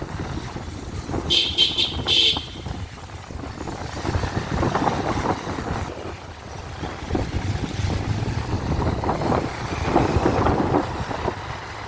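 Road traffic running steadily, with a vehicle horn giving two short toots about a second and a half in.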